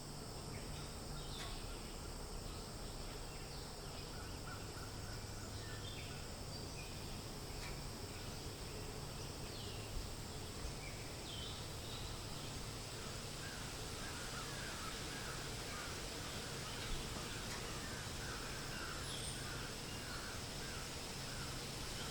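Forest ambience: a steady wash of wind through leaves with birds chirping now and then, and a run of repeated short bird calls in the second half.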